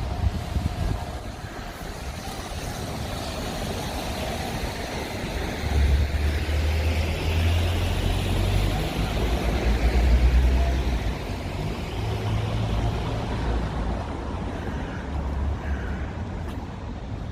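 Street traffic going by, with one vehicle passing loudest around the middle and low gusts of wind rumbling on the microphone.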